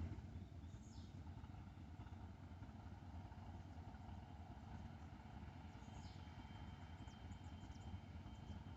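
Near silence: a faint low outdoor rumble, with a few brief, faint high chirps about a second in and around six seconds.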